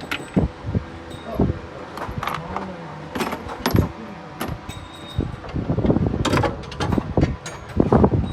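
Irregular metallic clinks and knocks of hand-handled metal, such as tools and parts, with louder rustling noise building near the end.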